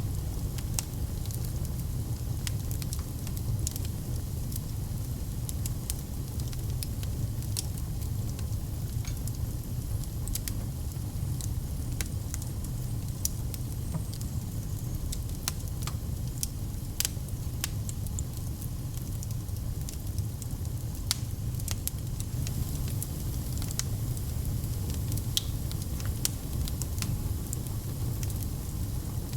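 Wood fire in a fireplace crackling steadily, with frequent sharp pops and snaps over a low, even rumble of the flames.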